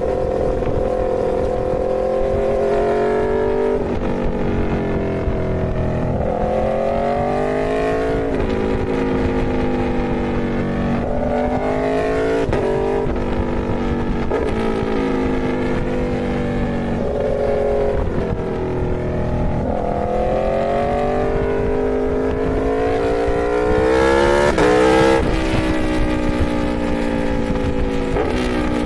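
Aprilia Tuono V4 motorcycle's V4 engine pulling through the gears: the pitch climbs and then drops sharply at each shift, again and again, with the loudest, highest rev near the end.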